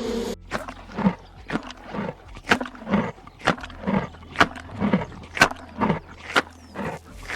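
An animal making a regular series of short, sharp calls, about two a second.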